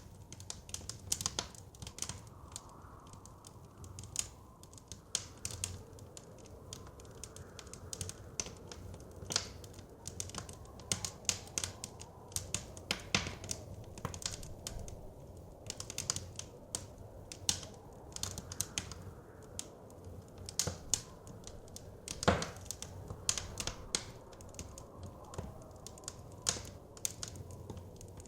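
Wood fire crackling, with irregular sharp pops and snaps over a low steady rumble of soft wind; one louder pop about three-quarters of the way through.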